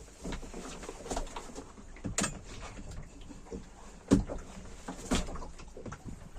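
Irregular knocks and thuds on a small boat, the three loudest about two, four and five seconds in, with lighter clicks between, as a freshly landed cod is handled aboard.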